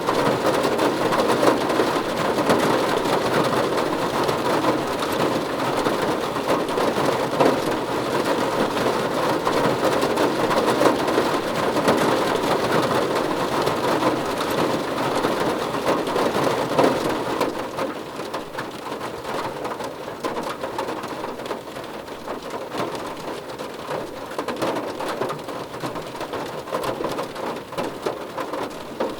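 Steady rain drumming on a car roof, a dense patter that turns noticeably quieter and lighter about two-thirds of the way through.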